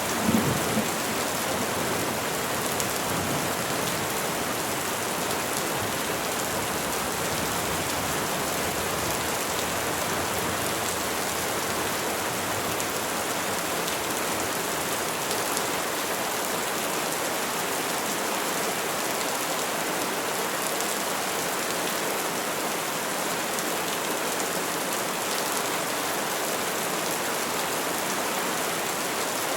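Steady, even rainfall pattering on trees and leaves. The tail of a low thunder rumble dies away in the first second.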